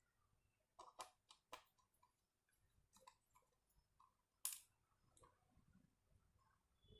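Faint, scattered clicks and taps of small parts being handled, about half a dozen, the loudest about four and a half seconds in, over near silence.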